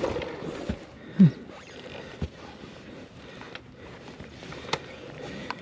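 Rustling with scattered clicks and knocks as the rider handles the electric dirt bike on rocky ground, with one short grunt about a second in. No motor sound stands out.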